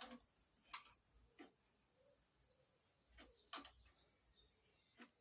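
Quiet, scattered light metallic clicks and taps, about five over the few seconds, from engine parts being handled and fitted by hand. Faint bird chirps in the background.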